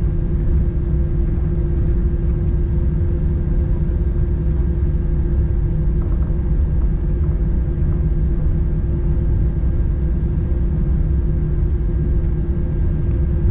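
Steady low rumble of an Airbus A321 cabin while taxiing at idle power, with a constant hum running under it.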